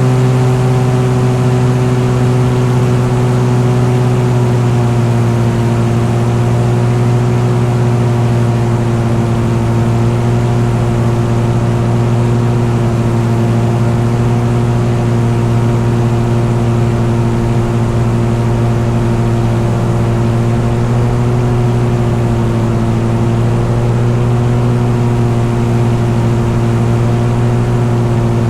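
An engine running at a steady, constant speed, a loud low drone that holds one pitch with only slight wavering.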